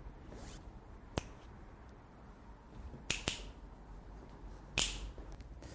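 A few sharp clicks, a close pair of them a little past halfway, some with short hissing brushes, over quiet room noise.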